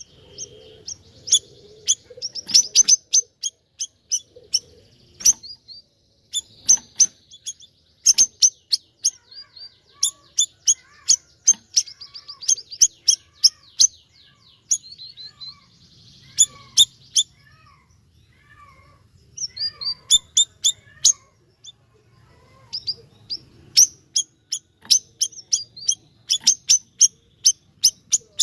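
Siri-siri songbird singing energetically: fast runs of sharp, high chirps and rapid trills, broken by a couple of short pauses.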